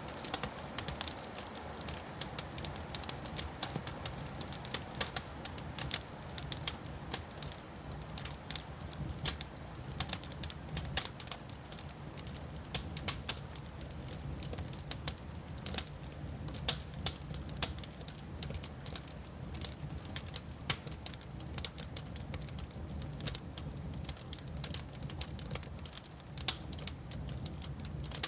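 Wood fire crackling: many irregular sharp snaps and pops over a low, steady rumble.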